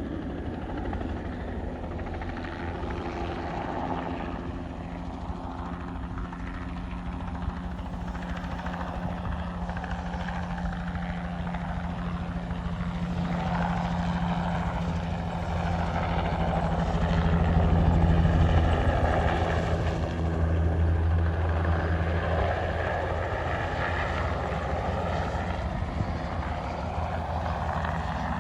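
Agricultural spraying helicopter flying with a steady low rotor and engine drone. It grows louder to a peak a little past the middle, then eases off somewhat.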